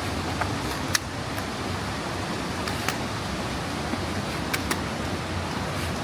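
Steady rumble of a moving vehicle heard from inside the cabin, most likely a bus, with a few sharp rattling clicks: one about a second in, one near the middle and two close together near the end.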